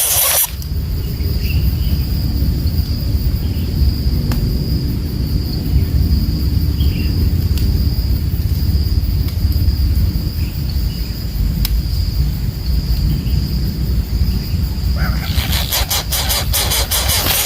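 Outdoor ambience: a steady low rumble carries a thin, steady high drone from a cricket-like insect, with a few faint scattered chirps. A loud hiss cuts off about half a second in, and a crackling hiss comes back near the end.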